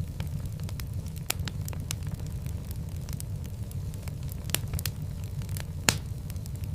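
Wood fire burning in a fireplace: a steady low rumble of flame with scattered sharp crackles and pops, the loudest pop near the end.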